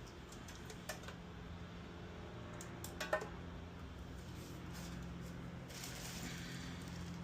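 Scattered light clicks and taps, the loudest about three seconds in, over a steady low hum, with a short stretch of hissy noise near the end.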